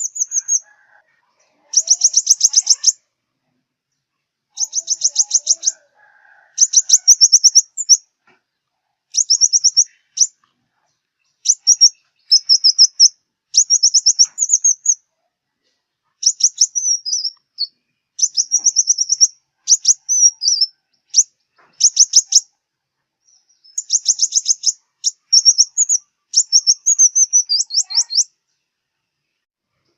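Sunbird song: a run of high, rapid trills of repeated notes, each about a second long, broken by short pauses, some phrases ending in quick twittering notes.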